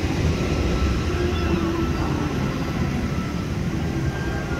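Steady low rumble of outdoor ambience with faint, indistinct voices mixed in.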